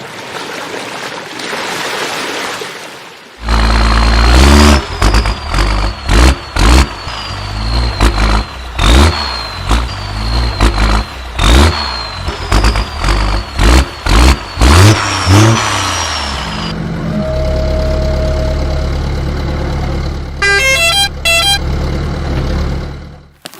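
Cartoon sound effects of toy construction vehicles: a loud engine sound broken by many short honks and squeaky gliding tones, then a steady low engine hum with a quick run of beeps near the end.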